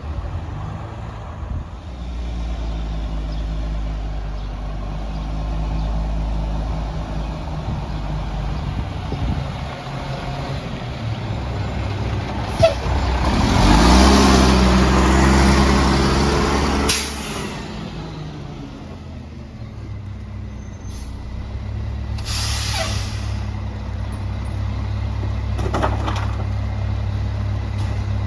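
Garbage truck's diesel engine running, revving up for several seconds about halfway through together with a long, loud hiss of air, then dropping back. A second, shorter air hiss follows a few seconds later.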